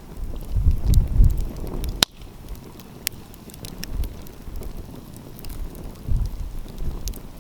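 Wood fire crackling, with scattered sharp pops, a loud one about two seconds in. Gusts of wind buffet the microphone as low rumbles.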